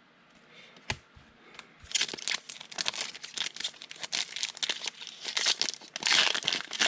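Foil wrapper of a football trading card pack crinkling and being torn open, a dense crackling that starts about two seconds in, after a single click.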